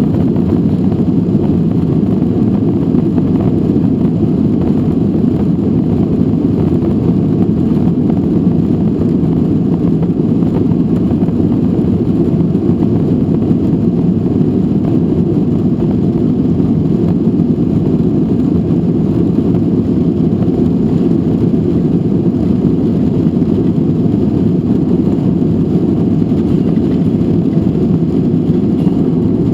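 Steady low cabin rumble of a Boeing 737-800 in motion: the engines and airflow heard from inside the passenger cabin, even and unchanging.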